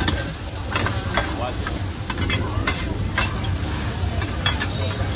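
Oysters in egg batter frying in oil on a wide flat pan, sizzling steadily. Metal spatulas scrape and clack against the pan several times as the omelettes are worked.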